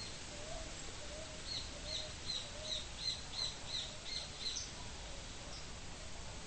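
Birds calling: a run of about nine short, high notes, each sliding down, about three a second, with a lower note repeating underneath in the first half. All of it sits over a steady background hiss.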